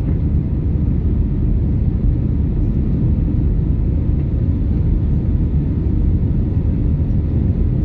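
Airbus A320 jet engines at takeoff thrust, heard as a steady, loud low rumble.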